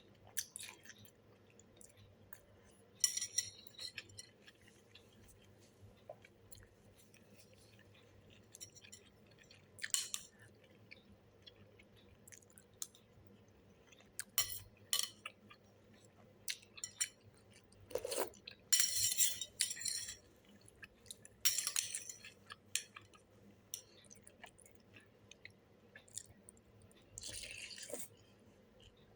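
Someone eating a bowl of beef noodle soup: several short bursts of slurping noodles and chewing, with scattered light clinks of utensils against the bowl.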